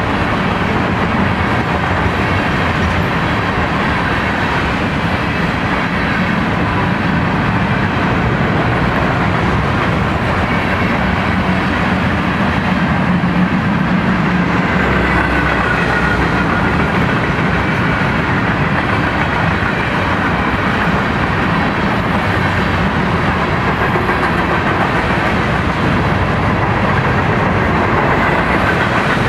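Covered hopper cars of a BNSF freight train rolling past on curved track: a steady, unbroken rumble of steel wheels on rail, with faint wavering high squeals about halfway through.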